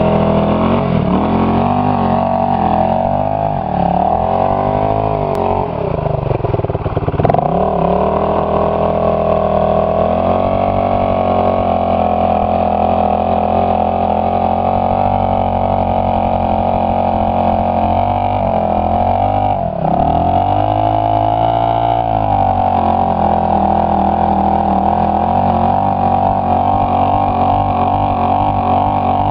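Suzuki DR350 dirt bike's single-cylinder four-stroke engine running under way, mostly at steady revs. The revs drop sharply and climb back a few times, most clearly about seven seconds in and again about twenty seconds in.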